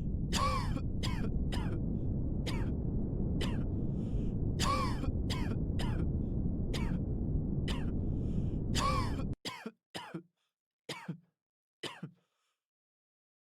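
Repeated coughing and throat clearing, short sharp coughs every half second to a second, over a steady low rumble of room noise. The rumble cuts off suddenly about nine seconds in, and a few last coughs follow. This is simulated test-hall noise.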